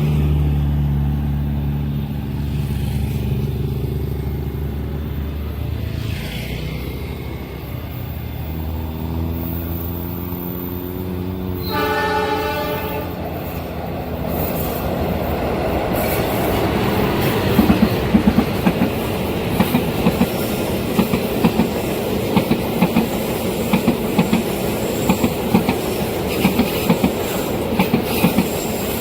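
Train approaching with a steady low engine drone, its horn sounding briefly about twelve seconds in. The train then passes close by, its wheels clacking over the rail joints in a steady rhythm under a constant rumble.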